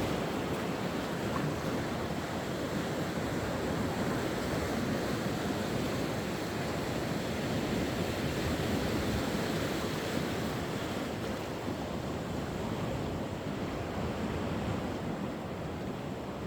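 Sea waves washing onto the shore in a steady, even surge that swells and eases slowly, with some wind on the microphone.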